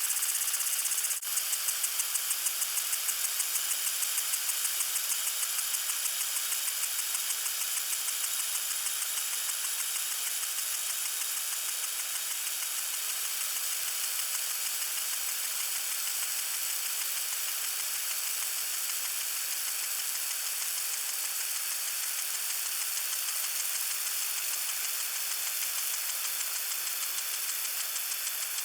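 Lawn sprinkler spraying water: a steady high hiss with a fast, even ticking pulse, briefly dipping about a second in.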